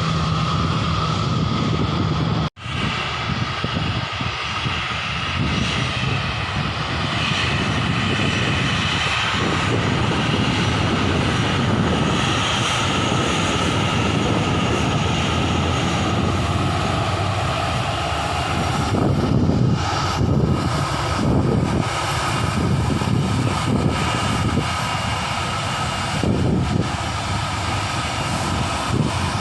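Airliner engines running with a continuous loud noise and a steady whine, with faint shifting higher tones partway through. The sound cuts out briefly about two and a half seconds in.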